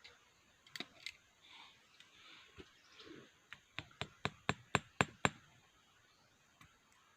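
A series of sharp knocks: two about a second in, then a run of about eight quick taps at roughly four a second around the middle.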